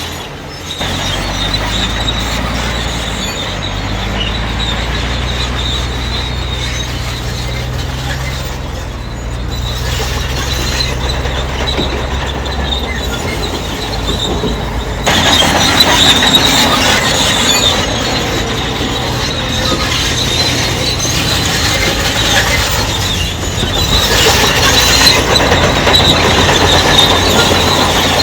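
Crawler bulldozer working, its diesel engine droning under a steady high squeal from the steel tracks; the track noise grows much louder about halfway through.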